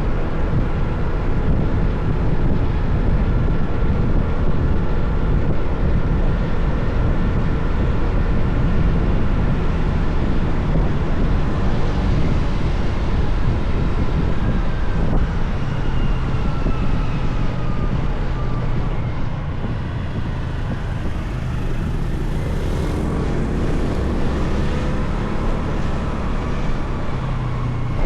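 Motorcycle engine running on the move, a steady low rumble whose pitch falls and rises again as the speed changes.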